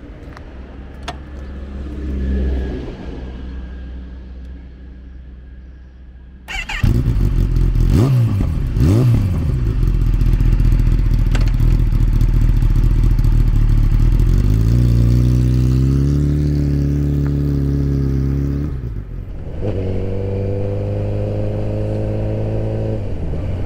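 Kawasaki Ninja ZX-10R sportbike's inline-four engine. It runs faintly at first, then turns loud about six seconds in with two quick revs rising and falling. It then runs steadily at speed, its pitch climbing a little and holding, and eases off briefly near the end before pulling again.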